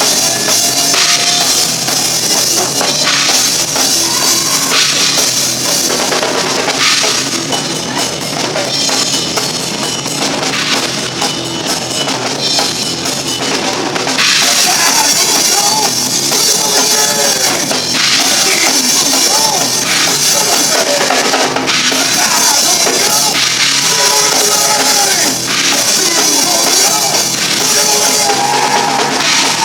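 Rock band playing loudly, with a full drum kit (bass drum and cymbals) driving the song; a wavering melodic line comes in about halfway through.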